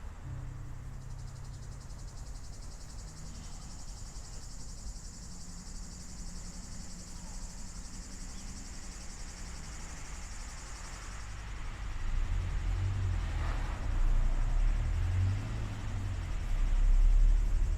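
Insects chirring steadily in a continuous high buzz, which stops about two-thirds of the way through. Over the last third a louder low rumble builds.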